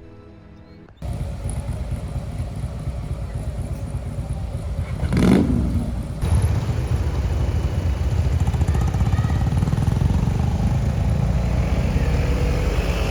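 A Honda CRF1000L Africa Twin's parallel-twin engine running steadily under way, mixed with wind noise on the rider-mounted microphone. It starts about a second in, and there is a brief loud whoosh about five seconds in.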